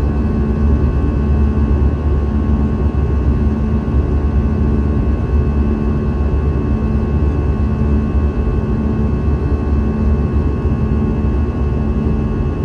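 Steady in-flight cabin noise of an Airbus A320: a low engine drone and rushing air, with a few faint steady whining tones and a slow low throb.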